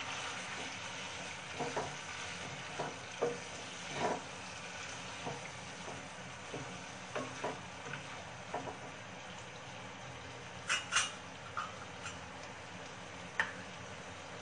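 Chicken pieces and masala sizzling in a non-stick kadhai while a wooden spatula stirs them, with irregular knocks and scrapes of the spatula against the pan. A couple of sharper clicks come about eleven seconds in, and another near the end.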